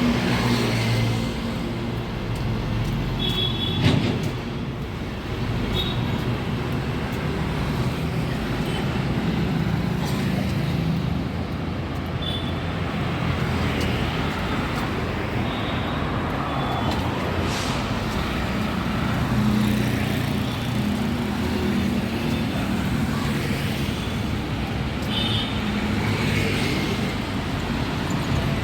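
Busy road traffic: the steady noise of engines and tyres from vehicles passing close by, with a sharp knock about four seconds in.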